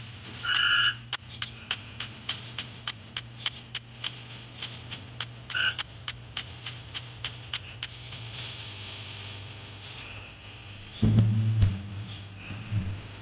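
A frog calling twice in short calls, about half a second in and again around five and a half seconds, over a run of quick sharp clicks and a steady low hum. A louder low rumble comes in around eleven seconds.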